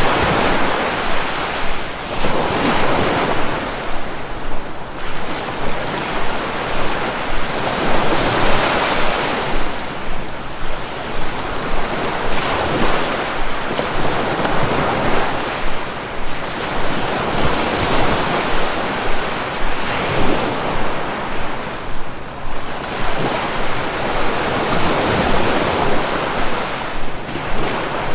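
Sea waves breaking and washing ashore, a continuous rush that swells and subsides every few seconds.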